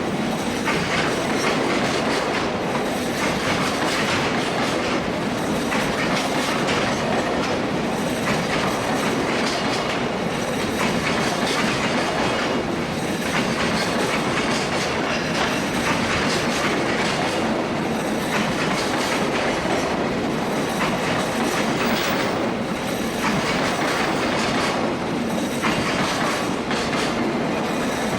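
Freight train wagons rolling past with a steady rumble and clickety-clack over the rail joints, the wheel beats coming round about every two and a half seconds.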